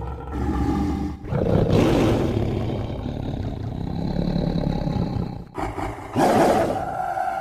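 Dinosaur-monster roar sound effect for the Burrunjor, a large theropod-like creature. A long roar starts about a second in and slowly trails off, and a shorter, sharper roar comes near the end.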